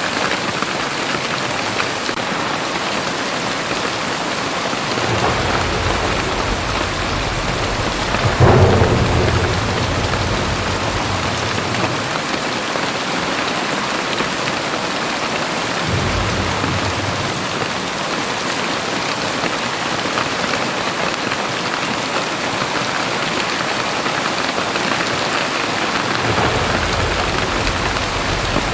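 Very heavy rain falling steadily, with thunder rumbling over it: a long rumble starting about five seconds in with a louder clap near eight seconds, and a fainter rumble from about sixteen seconds that fades out near the end.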